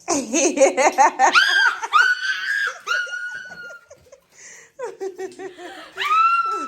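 People laughing and squealing excitedly, several voices overlapping at first, with long high-pitched held squeals.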